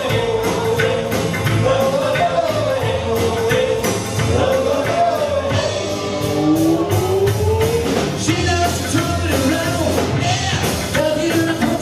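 Live rock and roll band playing, with a singer's voice carrying the melody over guitar, bass and a steady drum beat.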